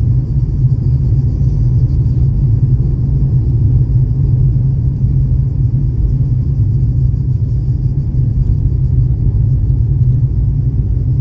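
Car driving up a mountain road: a steady low rumble of engine and road noise.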